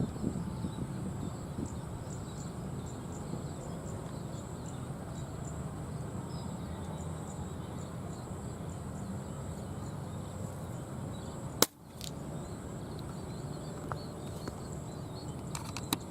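Steady outdoor background noise, with a single sharp crack about two-thirds of the way through.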